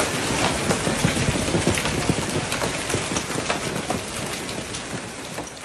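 Heavy rain falling, a steady hiss with scattered drop ticks that slowly fades.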